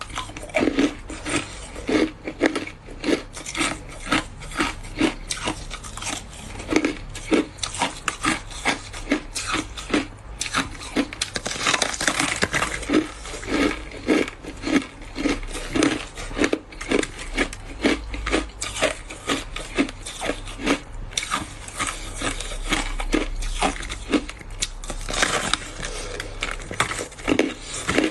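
Ice being chewed close to the microphone: a steady run of crunching bites, about two a second, with a few denser crackling stretches.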